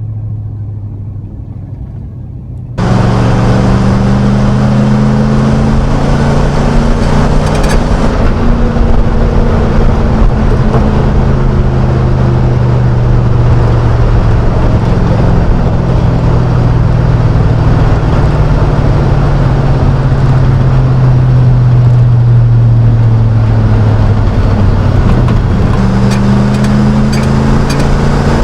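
A 5.3-litre LM7 V8 running through a Cherry Bomb straight-through muffler, heard as a low exhaust drone inside the pickup's cab. It is quieter for the first few seconds, then jumps suddenly to a loud, steady drone about three seconds in. The pitch sags slowly through the middle and climbs again near the end.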